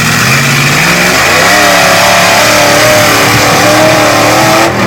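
Range Rover V8 engine revving hard under load, its pitch climbing about a second in and held high near the rev limit with a wavering pitch, then dropping off near the end.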